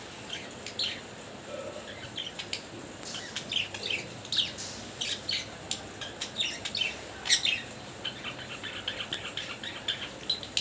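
Pet budgerigars chirping and chattering in quick, sharp calls, with a fast run of chirps near the end.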